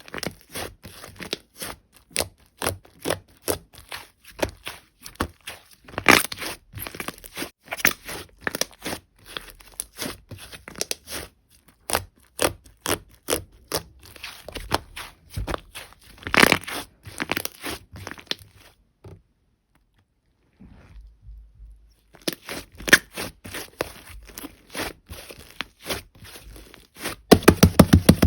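Sticky slime being squeezed and pressed by hand, giving dense crackling clicks and pops. The sound stops for about three seconds about two-thirds of the way through, then resumes and grows louder near the end.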